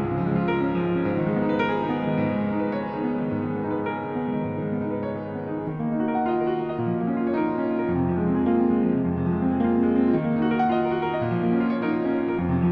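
Background music led by piano, slow sustained chords and notes.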